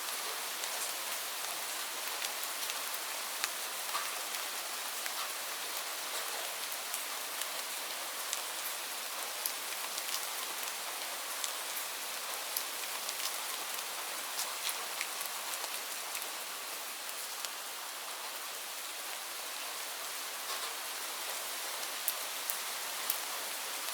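Steady rainfall: a dense hiss of rain with many separate drops ticking sharply on a surface.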